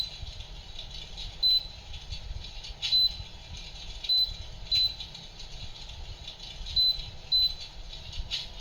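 Electric fireplace's control panel beeping: about seven short high beeps at uneven gaps, each one a button press being registered as the flame and lighting settings are changed, over a steady low rattling noise.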